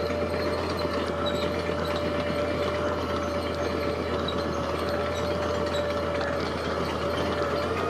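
Heavy construction machinery running steadily: a constant low engine rumble with a steady whine on top, unchanging throughout.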